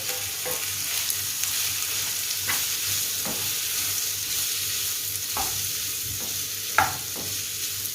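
Marinated chicken sausage slices sizzling steadily in hot oil in a frying pan, with a few short scrapes of a utensil stirring them against the pan, the loudest about a second before the end.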